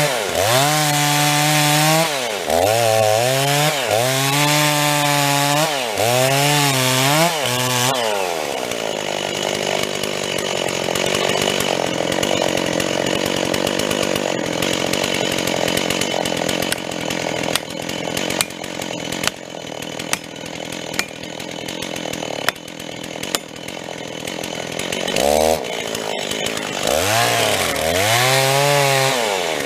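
Old STIHL two-stroke chainsaw blipped through a string of quick revs. About eight seconds in it settles into a steadier, lower-pitched run as it cuts into the trunk of a tree being felled. Near the end it is revved up and down again.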